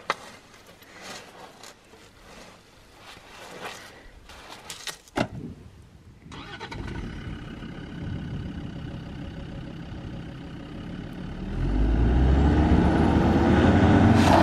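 Hands scraping sand and knocking a sand recovery board into place under a tyre, with sharp knocks at the start and about five seconds in. About halfway through, a Land Rover Defender's engine comes in running steadily. Near the end it revs up much louder as the vehicle, stuck in soft sand, tries to drive out onto the boards.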